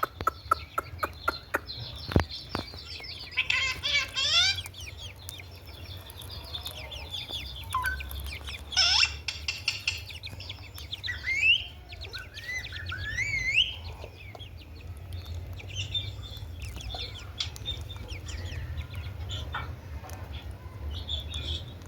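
A parrot calling in a string of short chirps, clicks, harsh squawks and whistles that slide up and down in pitch, over a steady low hum.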